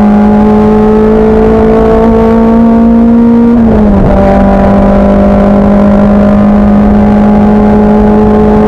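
Racing car engine accelerating hard, its pitch climbing slowly in one gear. A quick upshift drops the pitch a little under four seconds in, and it climbs again.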